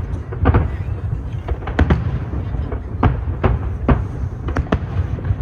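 Aerial fireworks bursting: a quick, irregular string of sharp bangs, about eight in five seconds, over a continuous low rumble.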